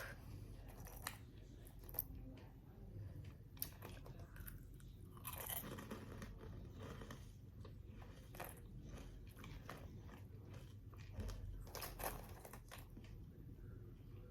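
Faint crunching and chewing of freeze-dried Chewy Nerds candy, a string of scattered crisp crunches.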